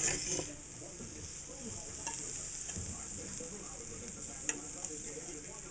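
Meat, onions and green peppers sizzling in a hot skillet as they are scraped out onto tortillas, with a steady hiss and a few light clicks of the utensil against the pan.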